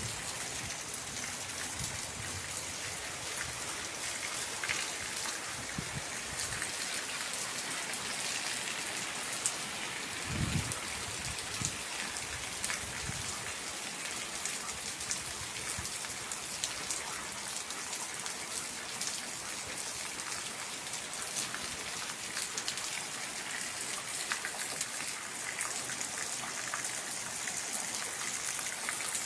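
Steady rain falling, an even hiss with many individual drops heard as fine ticks. A few brief low thuds come near the start and again about 10 seconds in.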